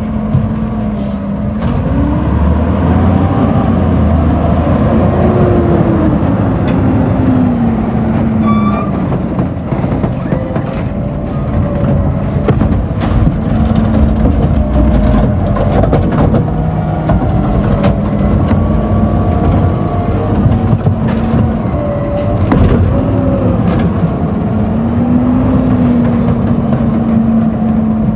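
Garbage truck's diesel engine running loudly, revving up and falling back several times, with scattered knocks and clanks over it.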